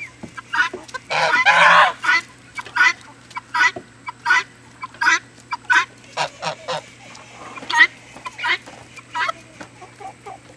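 A group of domestic fowl calling as they feed: many short, repeated calls, with a longer, louder run about a second in.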